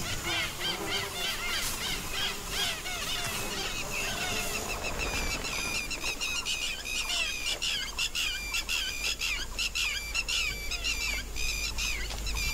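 A chorus of wild birds calling and chirping, many short quick calls overlapping, growing denser in the second half.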